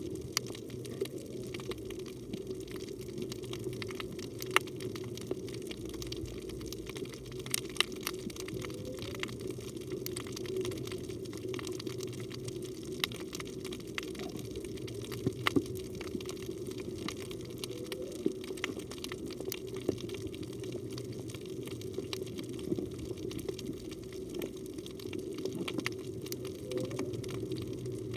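Underwater reef ambience picked up by a camera in a housing: a steady low rush of water with many sharp scattered clicks. A few faint, short rising tones come every several seconds.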